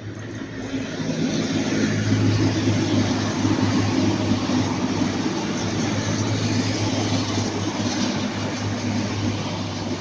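Class 185 diesel multiple units passing at close range: a steady diesel engine drone with wheel and rail noise, building over the first couple of seconds and then easing off slightly.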